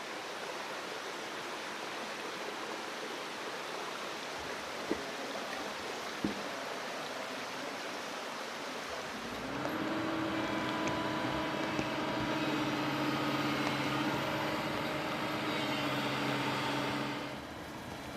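Steady rush of running stream water, with two brief clicks. About halfway through, a motor starts up and runs at a steady pitch, rising briefly as it comes in. It stops shortly before the end.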